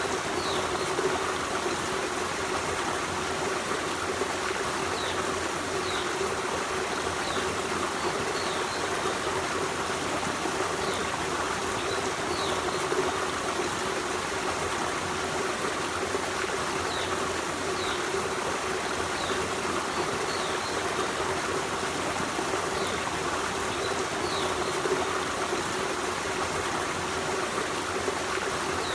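Forest stream, water running and trickling steadily, with a few short, faint high chirps now and then.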